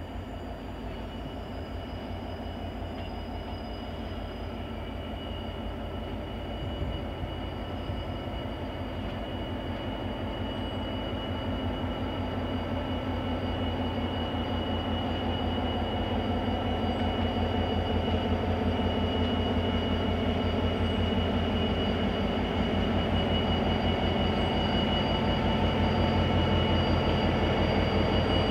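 CIE 071 class diesel locomotive's EMD twelve-cylinder two-stroke engine running with a steady rapid beat, growing gradually louder, with a steady high whine above it.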